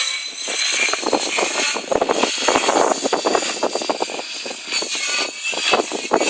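GAUI X5 electric RC helicopter flying, its motor and drivetrain giving a steady high whine, under gusty wind buffeting the microphone.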